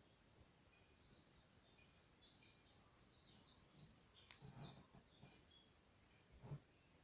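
A small songbird sings a quick run of high, short chirps, many dropping in pitch, which fades out about five seconds in. There is a soft low thump near the end.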